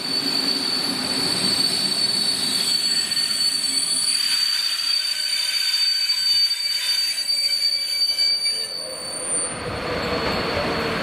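ČD class 362 electric locomotive and its intercity coaches slowing into a station stop, with a steady high-pitched squeal from the wheels and brakes over the running rumble of the train. The rumble grows louder near the end as the train draws close.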